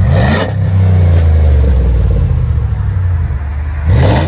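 A 5.7L HEMI V8 revving through a Flowmaster 50 Series muffler, with the factory catalytic converters and resonator still in place. It blips up at the start, holds the revs for about three seconds, then blips up again near the end, with a deep, throaty exhaust note.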